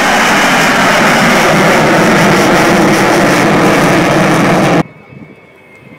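Loud, steady jet aircraft noise, laid on as the sound of an Avro Vulcan B2 flying past, that cuts off abruptly near the end.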